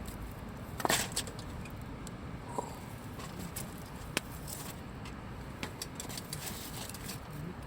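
Wood campfire crackling, with scattered sharp pops, the loudest about a second in and another at about four seconds, over a steady low background rush.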